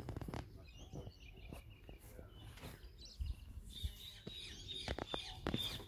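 Faint bird chirps outdoors, mostly in the first two seconds and again from about four seconds in, over low outdoor background noise, with a few scattered light knocks.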